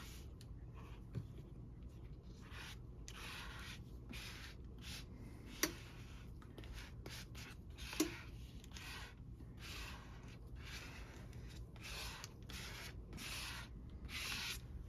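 Hands smoothing a damp, peroxide-sprayed paper sheet flat over a comic book cover: a run of soft, irregular paper rubs, with two sharp taps a little over a third and about halfway through.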